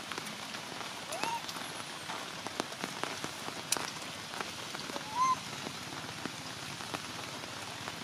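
Steady heavy rain falling on hard surfaces, with scattered sharp drips. Twice, about a second in and again about five seconds in, a baby monkey gives a short rising whimpering cry.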